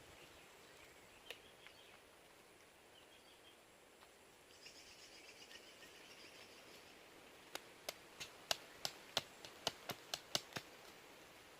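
Faint bird chirps over quiet forest ambience, then a quick run of about a dozen sharp knocks, roughly three a second, in the last few seconds.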